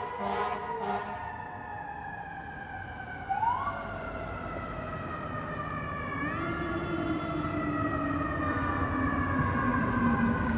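Fire truck siren: a pulsing tone at first, then a long tone slowly winding down in pitch, with a short rise in pitch twice along the way. It grows louder toward the end as the apparatus approaches.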